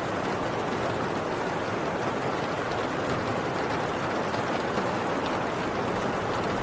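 Heavy rain falling on a tin roof: a steady, dense hiss with faint scattered drop ticks.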